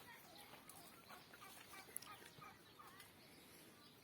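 Faint, scattered short clucks of domestic chickens over quiet rural background.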